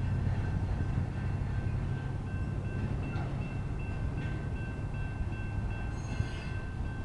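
Intermodal freight train rolling slowly through a grade crossing with a steady low rumble, while the crossing's General Signals electronic bells ring on. A brief high metallic squeal about six seconds in.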